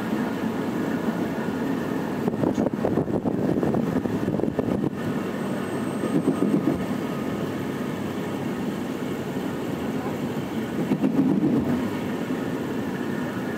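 Running noise of a night sleeper train heard from inside the carriage: a steady rumble with rattling that swells a little now and then.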